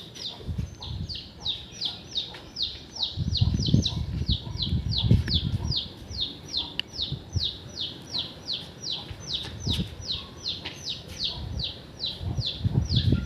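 A bird calling: a fast, even series of short, high chirps, each falling in pitch, about three or four a second. Louder low rumbling noise comes in around three seconds in and again near the end.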